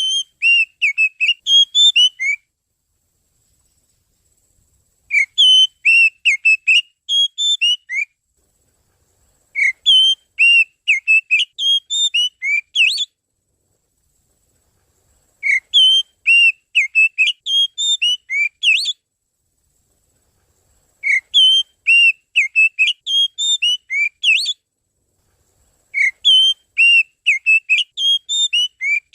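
Kacer (Oriental magpie-robin) lure call: a burst of rapid whistled notes lasting about two and a half seconds, repeated six times with silent gaps of similar length, as if looped.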